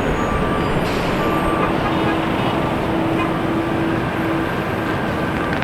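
Loud, steady engine and traffic rumble, with faint held tones on top.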